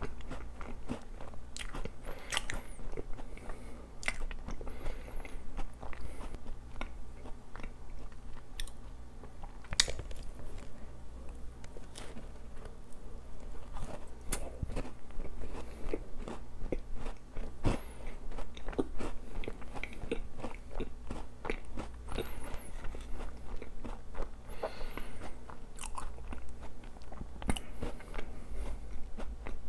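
A person chewing and biting a cream-topped donut, with a steady run of small sharp mouth clicks and smacks.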